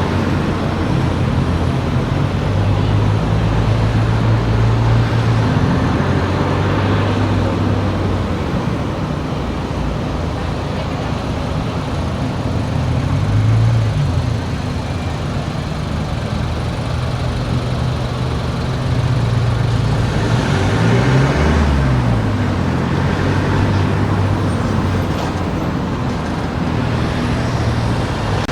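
A car driving, with steady engine and road noise. The engine's pitch dips and rises briefly a little before halfway and again about three-quarters through, as the speed changes.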